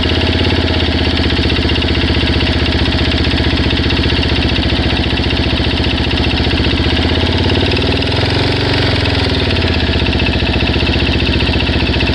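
Suzuki DR-Z400S single-cylinder four-stroke engine idling with a steady ticking like a heartbeat. The tick remains after a new cam chain and both cam chain guides, and its cause is unknown to the owner.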